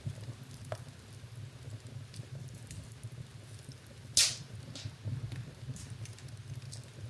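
Wood fire burning in a fireplace, crackling with scattered small snaps over a low steady rumble, and one loud pop about four seconds in.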